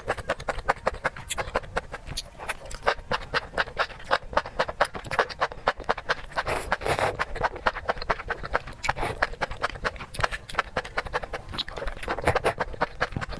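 Close-miked eating sounds: a rapid, irregular run of sharp crunches and mouth clicks as food is chewed.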